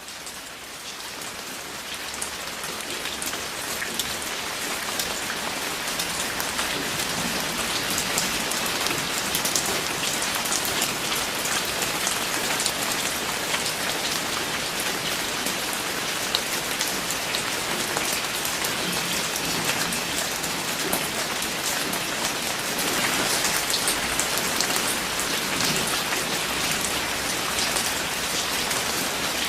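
Steady rain falling, with many separate drops ticking distinctly over the even hiss; it fades in over the first few seconds.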